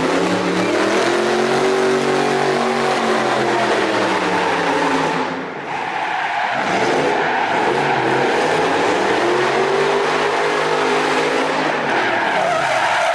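V8-powered BMW E46 drift car with a straight-pipe exhaust, held at high revs through two long drifts with tyres screeching. The engine note rises and falls in each drift, with a brief dip in revs and loudness about five and a half seconds in.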